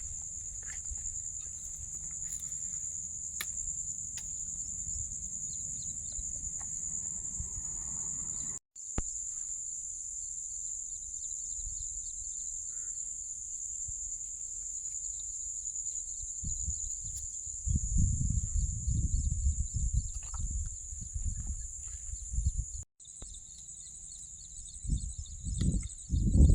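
Insects droning steadily, a high-pitched, unbroken buzz with faint pulsing chirps beneath it. A low rumbling noise comes and goes underneath and swells loudest in the last third.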